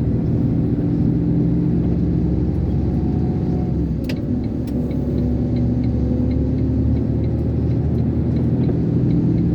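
Iveco concrete mixer lorry's diesel engine pulling hard under load up an incline, heard from inside the cab, at about the limit of its power in ninth gear. Its pitch drops slightly with a click about four seconds in, and faint regular ticking follows.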